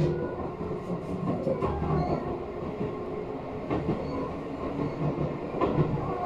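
Electric commuter train running, heard inside the carriage: a steady rumble of wheels on rail with a few faint clicks.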